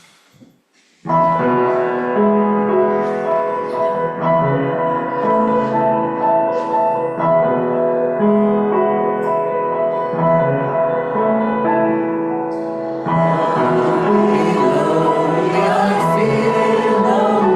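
Piano playing the introduction to a hymn, starting about a second in after a short quiet gap. About thirteen seconds in, the sound becomes fuller and busier.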